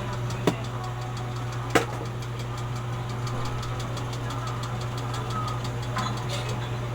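A steady low mechanical hum with a fast, even ticking over it, broken by two sharp clicks within the first two seconds.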